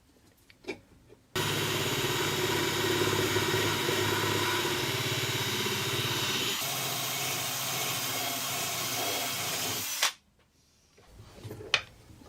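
A power tool starts abruptly, runs steadily for about nine seconds with a low hum under a strong hiss, then cuts off suddenly; a few small clicks come before it.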